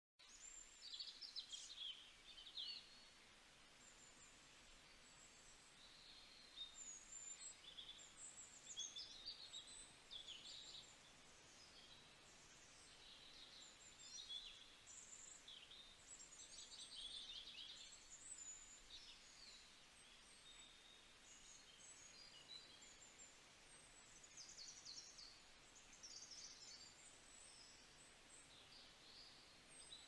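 Faint chorus of songbirds chirping and trilling, many short high calls overlapping and coming and going over a low steady hiss.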